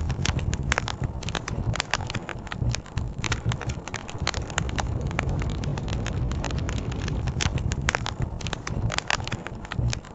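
Wood campfire crackling, with frequent sharp pops and snaps scattered irregularly through, over a steady low rush of flowing river water.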